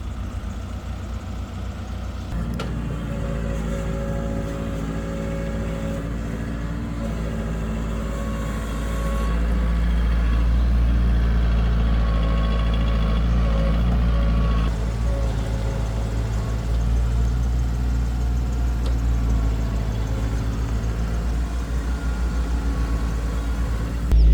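Diesel engine of heavy construction machinery running steadily. It picks up load about two and a half seconds in, works hardest and loudest from about nine to fifteen seconds, then eases back.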